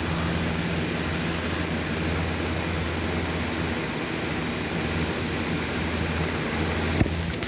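Thunderstorm noise: a steady rushing sound with a low hum under it, and one sharp click about seven seconds in.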